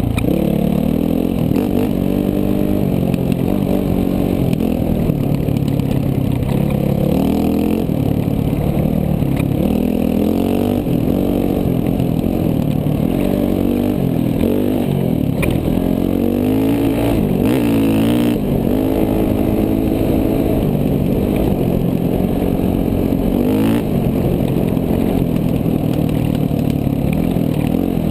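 KTM 450 dual-sport's single-cylinder four-stroke engine on the move, its pitch rising and falling again and again as the throttle is opened and closed.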